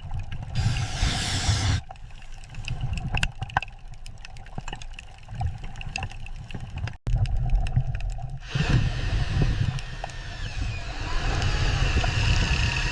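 Low machine rumble with rushing, hissing noise and scattered clicks. It changes abruptly about 2 and 7 seconds in, and a louder rushing noise with a faint steady whine sets in about 8.5 seconds in.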